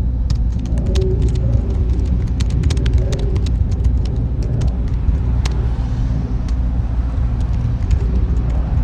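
Server room ambience: a steady low machine hum with irregular sharp clicks scattered over it.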